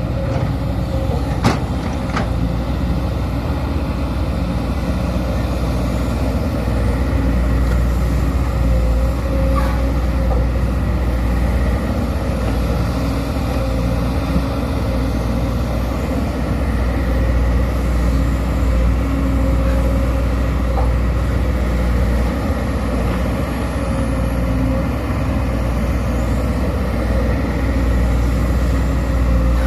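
Sumitomo SH210 hydraulic excavator's diesel engine running steadily under load with a deep drone, with a few light clicks and knocks from the machine working.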